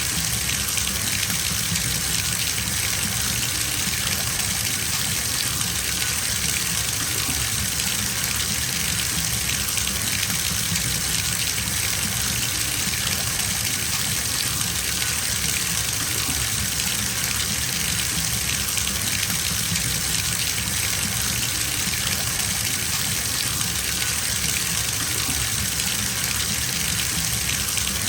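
Water running steadily from a tap into a bathtub, a constant gushing splash.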